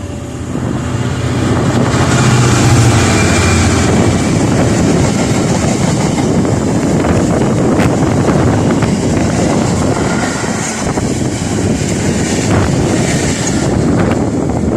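A train passing close by at speed, a loud steady rush of wheel and rail noise with a low hum in the first few seconds and a few sharp clicks later on. Wind buffets the microphone throughout.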